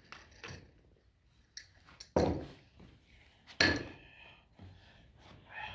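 Kitchenware clinking: two sharp knocks about a second and a half apart, the second ringing briefly, with lighter handling clatter between.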